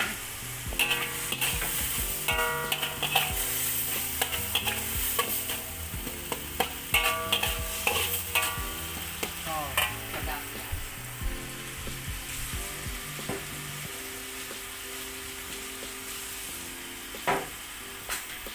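Chili sambal paste frying and sizzling in oil in a metal wok, with a metal spatula scraping and knocking against the wok as it is stirred. The spatula clatter is busy at first and thins out after about ten seconds, leaving mostly the sizzle.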